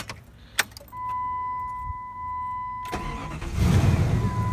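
1997 Jeep Grand Cherokee engine cranking briefly and starting about three and a half seconds in, then idling steadily: it now starts because the factory alarm has been bypassed by unlocking the door with the key. A steady high warning tone sounds before the start and again over the idle, and there are two clicks near the beginning.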